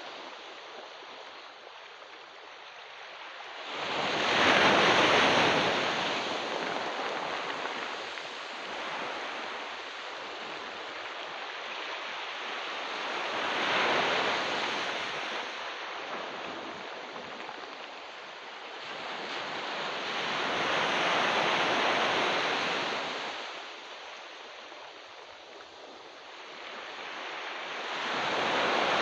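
Ocean surf breaking on a beach: four waves, one every seven to ten seconds, each swelling into a loud wash and then hissing back down between breaks.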